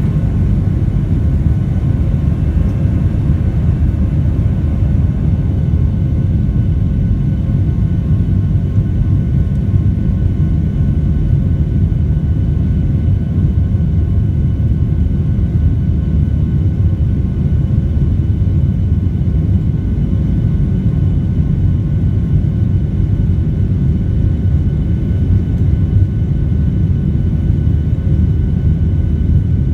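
Boeing 737 in flight, heard from inside the passenger cabin: a steady low rumble of the jet engines and airflow, with a few faint steady whining tones above it.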